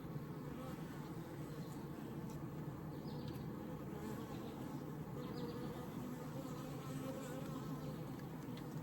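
Honeybee colony buzzing steadily in an opened Layens horizontal hive, a dense low hum of many bees.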